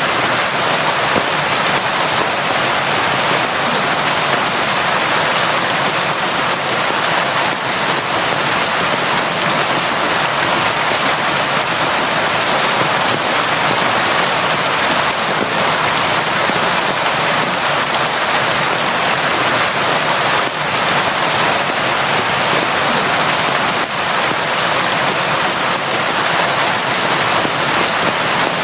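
Steady, heavy rain falling, a dense, even hiss of drops with no letup.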